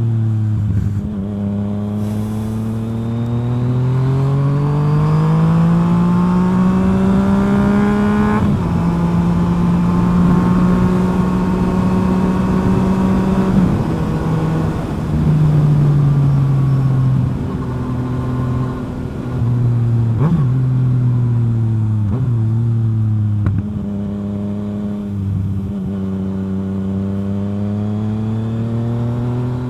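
Yamaha FZ-09's three-cylinder engine breathing through a full M4 exhaust while riding. It pulls up through the revs, holds a steady pitch, then eases off in steps, with a few sharp pops in the middle, and picks up again near the end.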